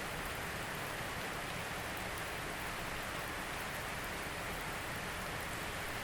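Steady rain falling: an even hiss of rain with a few faint scattered drop ticks.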